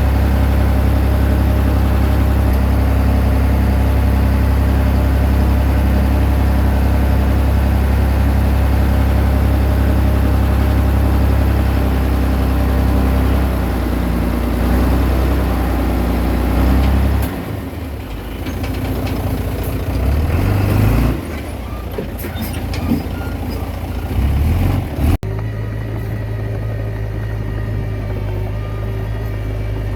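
Komatsu D20P bulldozer's diesel engine running steadily under load. About 17 s in the engine note drops and breaks up, with a few sharp knocks, and after a sudden cut near the end it runs on steadily at a lower pitch.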